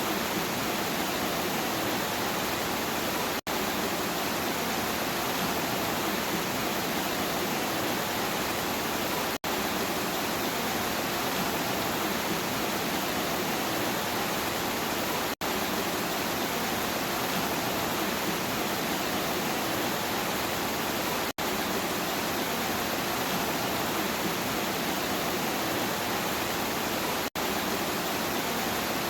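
Steady heavy rain, an even hiss with no single drops standing out. The sound drops out for an instant about every six seconds.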